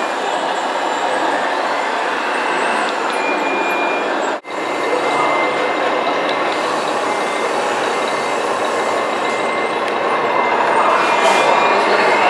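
Electric motors and gearboxes of remote-controlled model trucks running with a steady whir, with a faint high tone coming and going. The sound drops out sharply for an instant about four seconds in.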